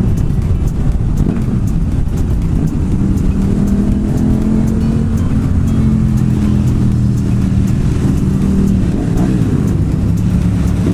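Motorcycle engines running at a steady cruising speed through a road tunnel, the engine note holding an even pitch without hard revving.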